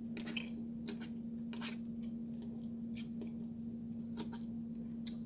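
Close-up chewing and mouth sounds from a person eating, with a few scattered short wet clicks. A steady hum runs underneath.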